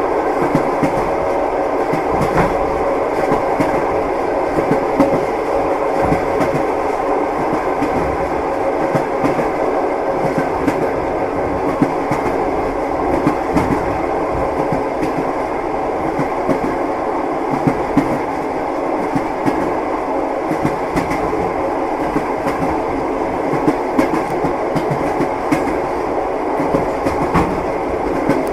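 Train running on rails: a steady rumble of the carriage with the clacking knock of its wheels over the rail joints.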